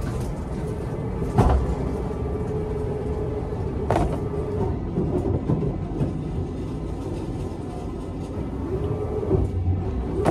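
Steady rumble of airport terminal background noise with a steady hum, broken by two sharp knocks about one and a half and four seconds in.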